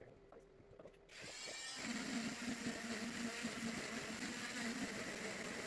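An electric motor switches on about a second in, winds up in pitch and then runs steadily, after a few faint light taps.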